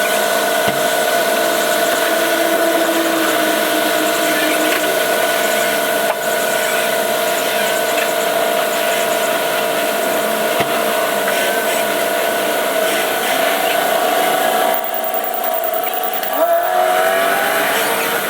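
A car driving, with steady engine and road noise and a steady whine.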